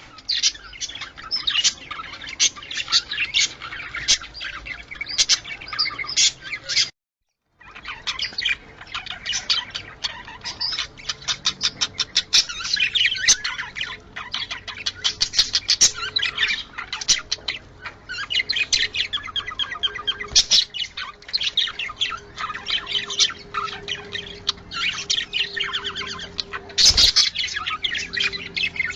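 Budgerigars chattering and warbling in dense, rapid chirps and squawks, the chatter of budgies in breeding condition. It drops out completely for about half a second around seven seconds in, and a sharp click sounds near the end.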